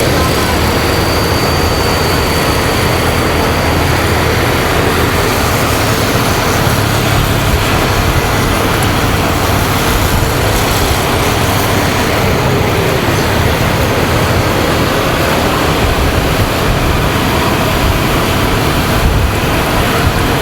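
Riding motorcycle's engine running steadily under way, mixed with wind rushing over the microphone and the noise of surrounding road traffic.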